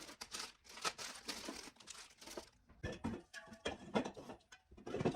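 Plastic packaging crinkling and tearing as groceries are unpacked, dense for about two and a half seconds, then giving way to softer separate knocks and rustles.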